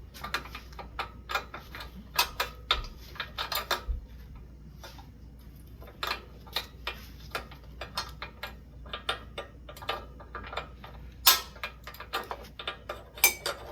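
Irregular light metal clicks and clinks from hands working on a ceiling fan's mounting hardware, with a quieter pause partway through.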